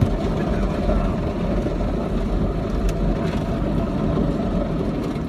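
Automatic car wash gantry running over the car, heard from inside the cabin: a steady noise of machinery and water on the bodywork as it makes its pass to rinse off the soap.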